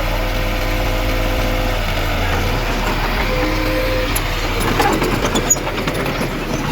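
Heavy diesel earthmoving machine engine running steadily, with a few short clanks and knocks a little before the end.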